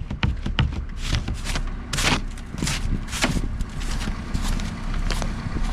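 Footsteps crunching through deep fresh snow, a step about every half second, over a steady low rumble.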